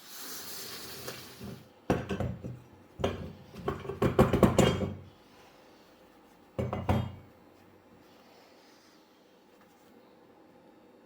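Hard objects being handled and set down: a short hiss at first, then a run of clattering knocks for about three seconds and one more short clatter a couple of seconds later.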